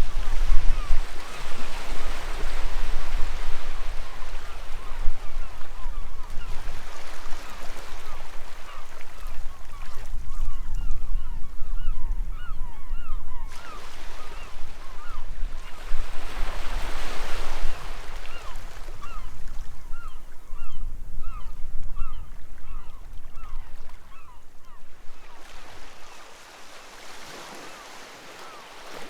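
Sea waves washing onto the shore in repeated swells, with many gulls calling over and over in short, arched cries. The whole sound drops away near the end.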